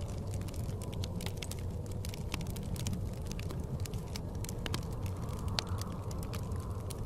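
Wood fire crackling, with frequent sharp, irregular pops and snaps, over a steady low rumble of blizzard wind.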